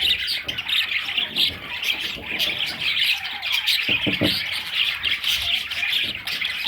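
Several budgerigars chirping and chattering continuously in a dense warble. Two short, soft knocks come about four seconds in.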